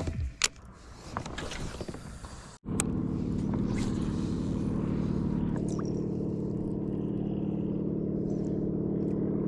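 Faint noise with a few clicks, then, about two and a half seconds in, a sudden change to a steady, even engine drone, as from a motorboat's engine running at constant speed, which stops abruptly at the end.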